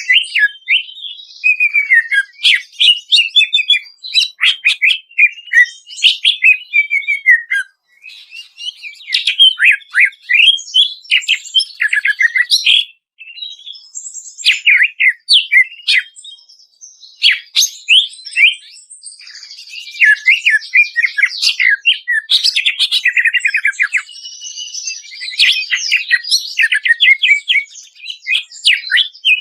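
Cucak ijo (green leafbird) song: a loud, nearly unbroken stream of rapid chirps, fast runs of sharp falling notes and some longer whistles, with short pauses about 8 and 13 seconds in.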